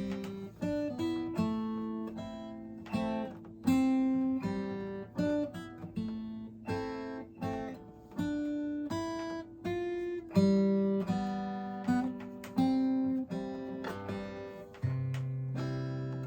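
Acoustic guitar playing a slow instrumental intro: picked notes and chords sounding one after another, each ringing out and fading before the next, with no singing yet.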